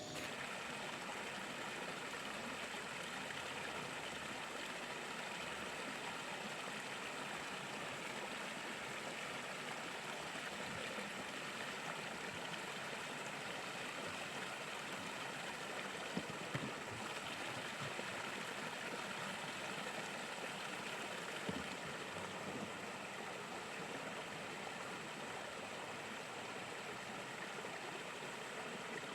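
Steady, even rush of running water, with a thin high steady tone above it and a few soft knocks about sixteen and twenty-one seconds in.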